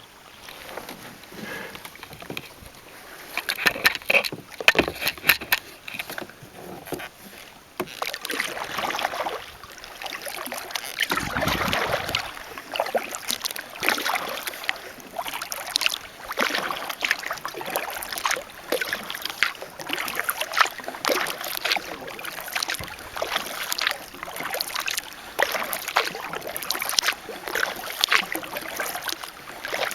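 Kayak paddle strokes: the blades dip and splash into the water again and again, with drips and trickles between strokes.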